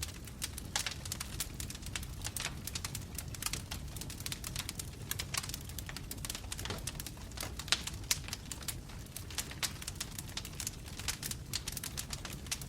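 Wood fire burning in a fireplace: irregular crackles and sharp pops from the burning logs over a steady low rumble of flame.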